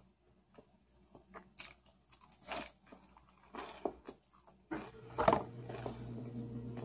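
Close eating sounds: crunching and chewing of lettuce taken from a plastic fork, with scattered small clicks. About two-thirds of the way through a steady low hum comes in, with one louder crunch just after it.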